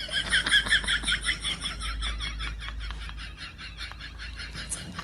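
Rapid, evenly repeated chirping calls from a small animal, about seven a second, slowly growing fainter.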